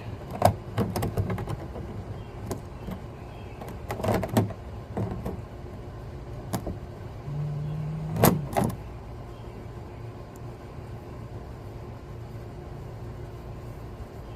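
Hot, thin engine oil pouring out of the drain plug hole into a drain pan in a steady stream, with a few sharp knocks and clanks about half a second, four and eight seconds in, the last the loudest, and a brief hum just before it.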